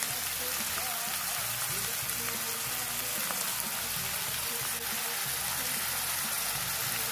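Chopped onion frying in a small wok for a butter sauce, giving a steady, even sizzle.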